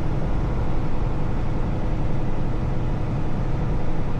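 Truck engine running, a steady low rumble with no change in pitch or level.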